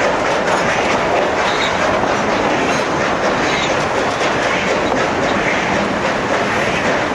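Durango & Silverton narrow gauge train rolling along the track: a steady rumble of wheels on rail, with a few faint, short, high squeaks.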